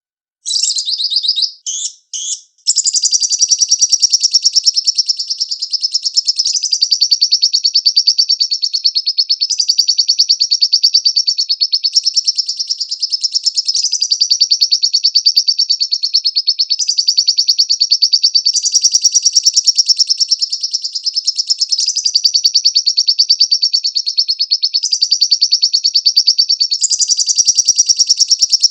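Lovebird singing a long, very rapid, high-pitched chattering trill. A few short broken bursts in the first couple of seconds run into one unbroken trill.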